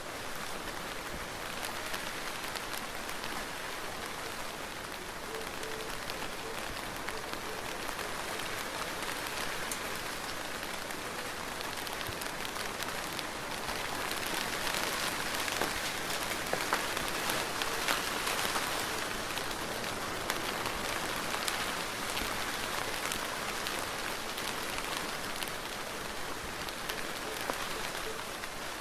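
Soft, steady rain falling on a surface, with individual drops ticking through it; it grows a little heavier about halfway through, then eases back.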